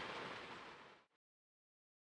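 Steady heavy typhoon rain drumming on the van, fading out about a second in and then cutting to complete silence.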